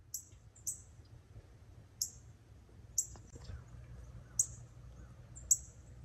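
A bird giving six short, sharp, high chip notes, irregularly about a second apart, over a faint steady low hum.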